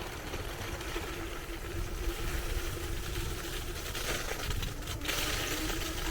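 Wet road noise while riding: a steady hiss like tyres on slush, with a low wind rumble. The hiss grows louder from about four seconds in.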